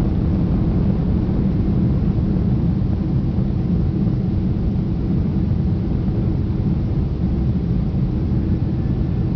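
Boeing 767-200 on its takeoff run, heard from inside the passenger cabin as a steady low rumble of engines and rushing air.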